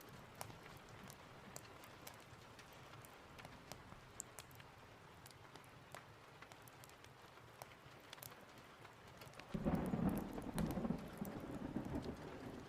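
Steady rain with scattered sharp ticks, then about ten seconds in a roll of thunder breaks in suddenly and rumbles for a few seconds before easing off near the end.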